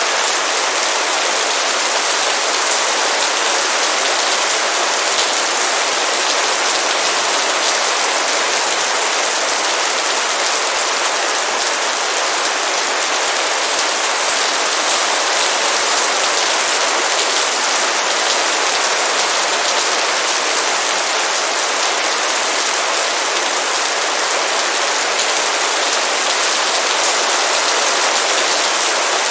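Heavy rain falling steadily in a dense, even hiss of many drops on surfaces.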